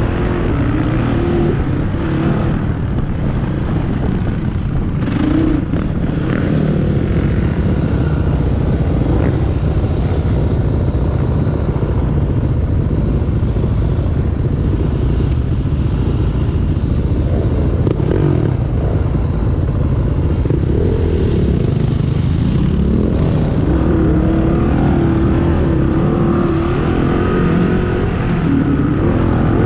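Motorbike engine running under way, its pitch rising and falling with the throttle, over a heavy low rumble.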